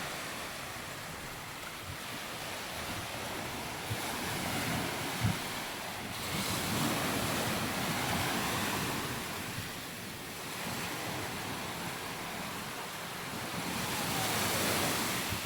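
Sea waves washing up onto a sandy beach, a steady hiss that swells and fades a few times as each wave breaks, with some wind on the microphone.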